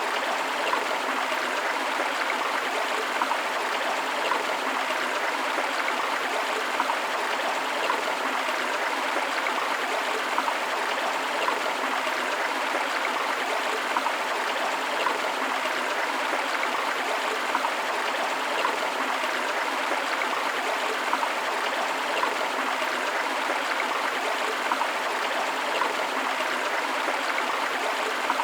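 Continuous rushing and babbling of a forest stream, water splashing over rocks in a steady, even flow.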